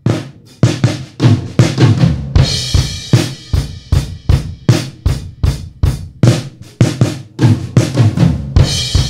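A recorded drum kit beat played through a Pultec tube equalizer, kick and snare hitting about three times a second, with a crash cymbal about two and a half seconds in and again near the end.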